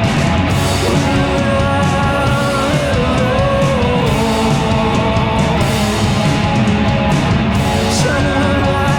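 Rock band playing loudly and without a break, with electric guitar and drums.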